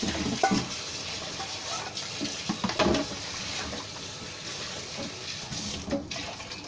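Black beans sizzling in oil in a wok over a gas flame: a steady frying hiss with a few light knocks.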